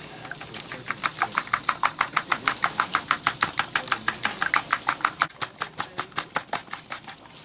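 Eggs being beaten by hand in a bowl, the utensil clicking against the side of the bowl in a quick, even rhythm of about six or seven strokes a second.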